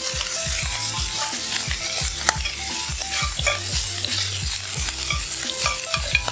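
Squid pieces searing and sizzling in smoking-hot grapeseed oil in a thick ridged skillet, with a spoon clicking and scraping against the pan as they are stirred.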